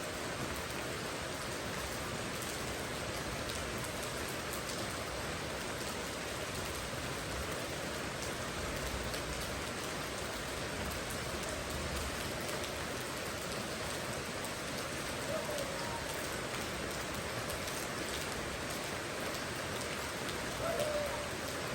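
Steady rain falling and pattering on surfaces, an even, unbroken hiss. A brief faint pitched sound comes twice in the second half.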